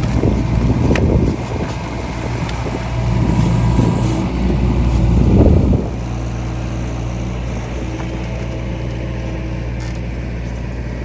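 Diesel engine of a John Deere 60G mini excavator running. It rises in load twice during the first half as the machine works, then settles to a steady run.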